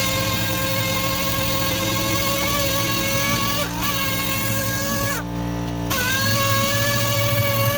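Electric power sander whining steadily on car body panels. Its pitch sags and the sound drops out briefly twice, then it spins back up.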